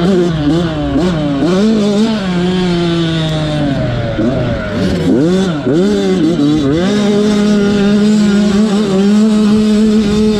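Motocross dirt bike engine racing, its pitch swooping up and down through throttle changes and shifts, then held at steady high revs for the last few seconds.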